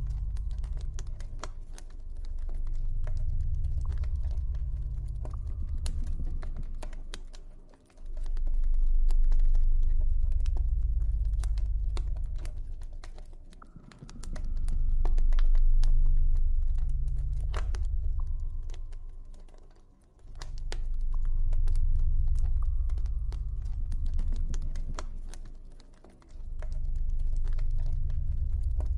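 Campfire crackling, with irregular small pops and snaps, over a deep low ambient drone that swells up and fades away about every six seconds.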